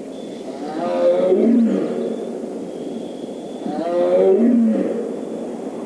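Siberian tiger roaring: two long calls about three seconds apart, each sliding down in pitch.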